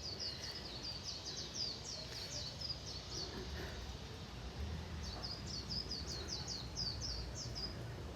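A small bird singing two runs of quick, short, high chirps, each lasting about three seconds with a pause between, over faint low background noise.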